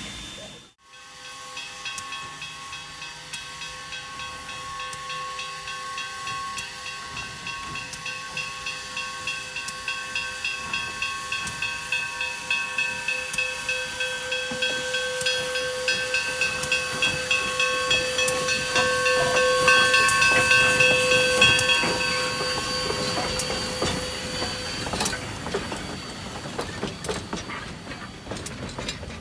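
Narrow-gauge steam locomotive working past, with rhythmic exhaust beats and steam hiss that build to a peak and then fade. A steady shrill multi-note tone is held over it for most of the time and stops a few seconds before the end.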